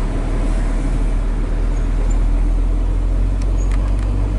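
Hino 500 FM320TI truck's diesel engine running steadily under way, a loud low drone heard from inside the cab. A few short clicks or rattles come near the end.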